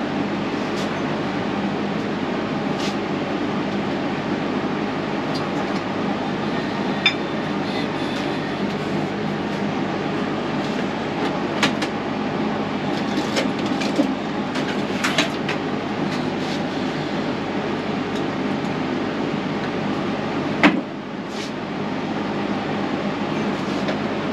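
A steady machine hum with scattered light clicks and knocks. About twenty seconds in there is a sharper knock, and the hum briefly drops.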